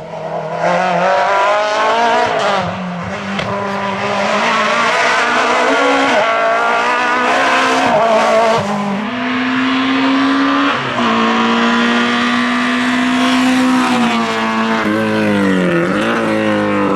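Group F2000 rally car's naturally aspirated engine at full attack: it revs up and shifts several times, holds high revs for a few seconds, then drops in steps near the end as it downshifts.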